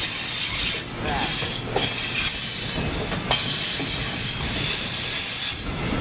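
A train passing close by at speed: a loud rushing of wheels on rail that dips briefly every second or so as each vehicle goes by, with a few short high wheel notes.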